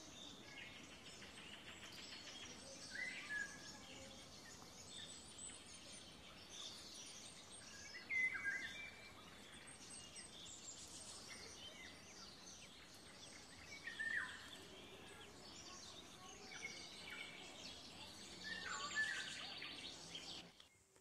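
Faint outdoor ambience with birds chirping now and then over a low steady background hiss; the chirps come every few seconds, a handful of them louder than the rest.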